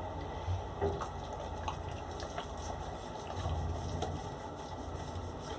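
Bathtub tap running into the tub, a steady rush of water, with a few faint ticks over it.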